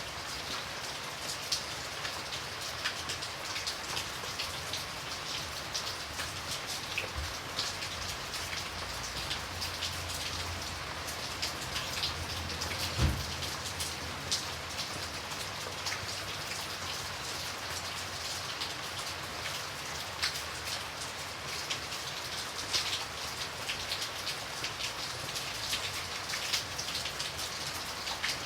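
Steady rain falling, with many separate drops pattering sharply on a surface. A single low thump about halfway through.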